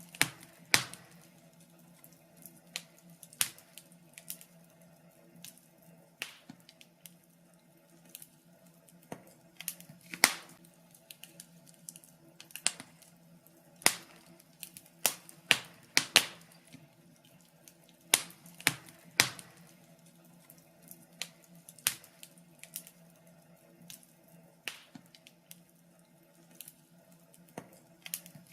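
Wood fire crackling, with sharp, irregular pops spaced a second or two apart over a faint steady hum.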